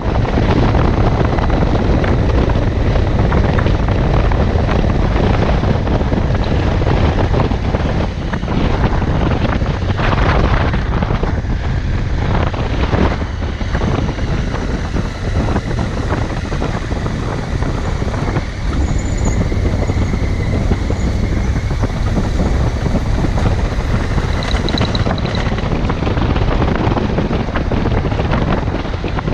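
Riding a motorcycle at speed: wind buffeting the microphone over the steady noise of the engine and tyres.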